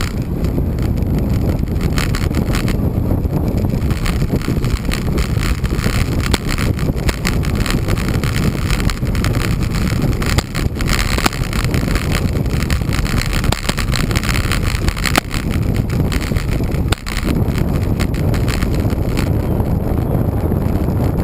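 Wind rumbling on the microphone of a camera riding along on a moving road bike, steady and loud, with scattered clicks and knocks from the bike rolling over the pavement.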